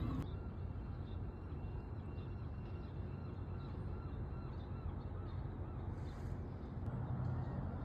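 A bird calling in a quick series of short repeated notes, faint, over a low steady rumble.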